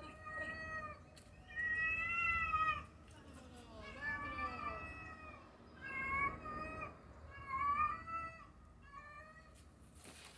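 A cat meowing repeatedly, about six drawn-out meows of under a second or so each, rising then falling in pitch.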